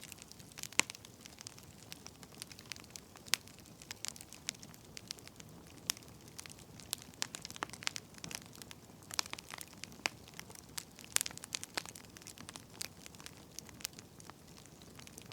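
Burning firewood crackling: irregular sharp pops and snaps over a soft hiss.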